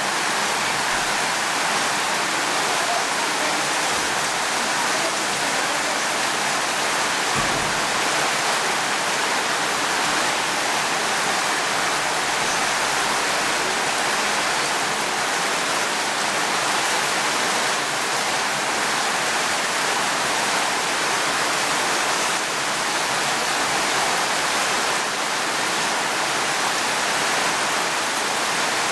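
Steady, dense rainfall, an even unbroken hiss of falling water.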